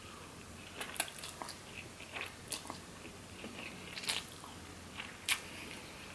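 A person chewing and biting food close to the microphone: irregular crisp crunches and wet mouth clicks, with a sharper crunch about five seconds in.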